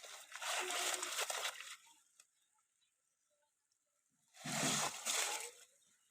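River water sloshing and splashing in two surges, one at the start lasting under two seconds and another about four and a half seconds in.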